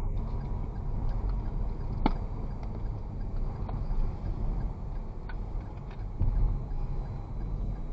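Steady low rumble of a vehicle on the move, engine and wind noise, with a sharp tick about two seconds in.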